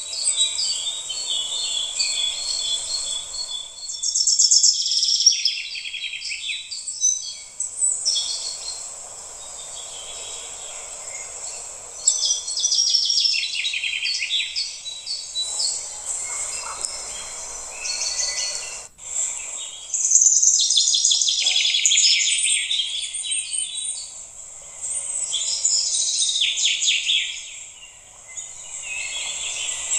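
Birds chirping in a busy chorus of many short, high calls, rising and easing off in several bouts.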